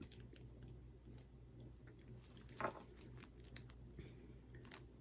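Faint scattered small clicks and rustles of hands working on a craft coaster, with a slightly louder rustle about halfway through, over a low steady hum.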